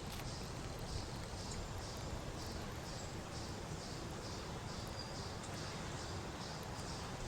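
Outdoor nature ambience: a steady rushing wash of sound with a faint high chirp repeating about twice a second.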